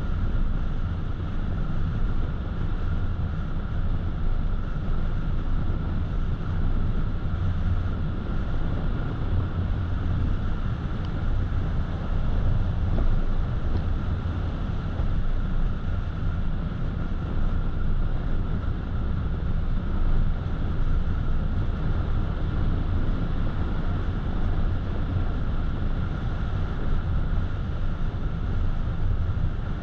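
Steady road noise of a car cruising: a continuous low rumble from the tyres and engine, recorded by the dashcam.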